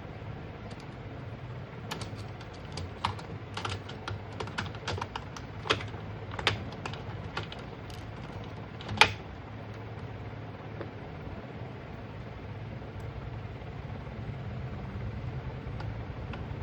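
Irregular light clicks and taps, about a dozen of them, the loudest about nine seconds in, over a steady low hum; they stop after about nine seconds.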